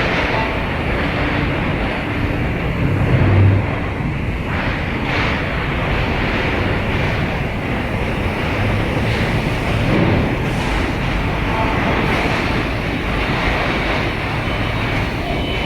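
Steady roar of industrial machinery in an aluminium melting and casting plant, with brief louder low swells about three seconds in and again about ten seconds in.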